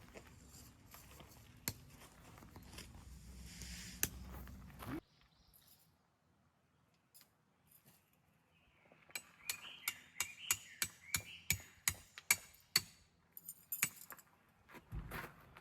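Outdoor ambience that cuts off abruptly about five seconds in. After a quiet stretch comes a run of sharp, light clinks and clicks, about two a second, from small hard items of camping gear being handled.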